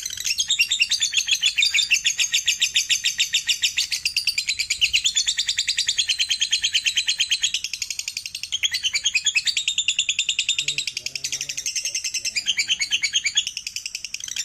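Lovebird chattering in its long 'ngekek' song: a fast, unbroken run of high, rapidly repeated notes, easing off briefly twice before picking up again.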